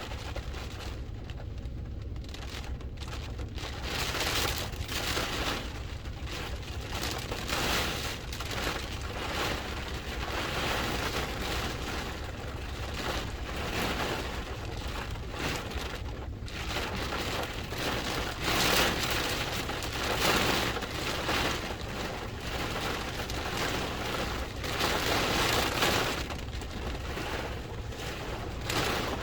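Heavy hurricane rain with gusting wind, surging louder and fading back every few seconds over a steady low rumble.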